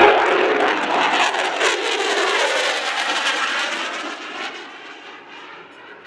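F-22 Raptor's twin Pratt & Whitney F119 turbofans: a loud jet roar with a sweeping, shifting tone as the fighter passes, fading steadily away over the last few seconds.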